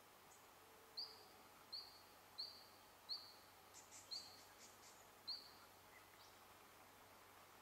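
A bird calling six short, high notes, roughly one every 0.7 s, with a few fainter, higher chirps in the middle, over otherwise quiet bush.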